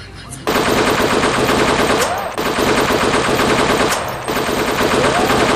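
Machine-gun sound effect played loudly, rapid automatic fire starting about half a second in and running in three bursts of almost two seconds each, split by two brief breaks.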